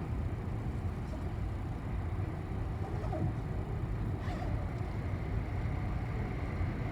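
City bus riding along, heard from inside the cabin: a steady low engine and road rumble.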